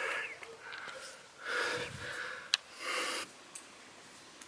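A person breathing hard: three audible breaths about a second apart, with a single sharp click between the last two.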